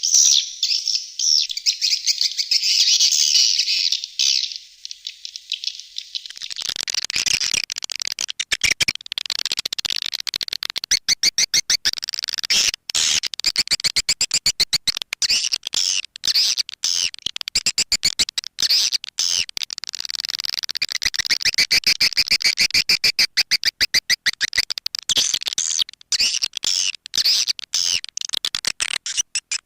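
Swiftlet lure call recording: dense, high-pitched twittering chirps of swiftlets. From about six seconds in, rapid repeated clicking pulses join them.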